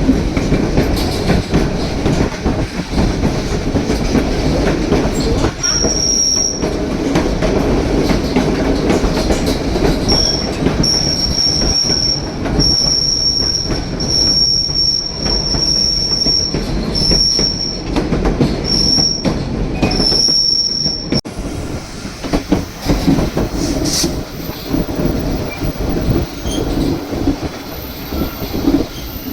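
White Pass & Yukon Route narrow-gauge train rolling along the rails, heard from aboard as a steady rumble and clatter. A high, thin wheel squeal comes and goes through the middle, then stops and the running noise eases a little.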